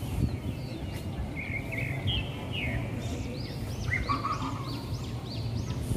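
Small birds chirping in quick, repeated arched notes, busiest in the second half, over a steady low rumble of city background noise.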